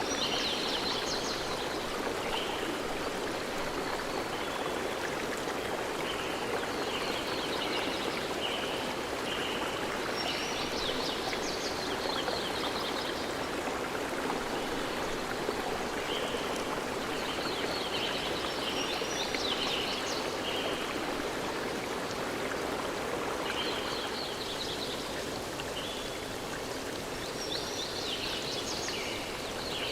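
A stream flowing steadily, with birds singing high, trilled phrases that come back every few seconds over the water.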